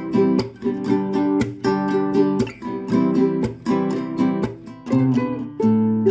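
Chords strummed on a plucked string instrument in a steady rhythm, the chord changing about once a second.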